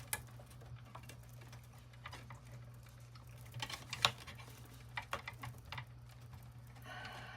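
Scattered light clicks and taps of small toy-truck parts being handled and fitted by hand, the sharpest click about four seconds in, over a steady low hum.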